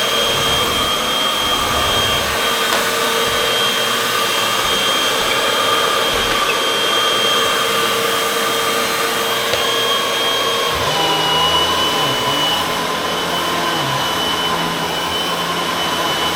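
Upright vacuum cleaner running steadily with a high motor whine. About eleven seconds in the whine drops slightly in pitch and a low hum joins it.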